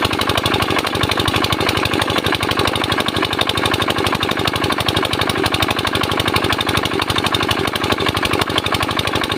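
Comet 85 mm single-cylinder diesel engine running steadily, its firing strokes making a quick, even thumping beat.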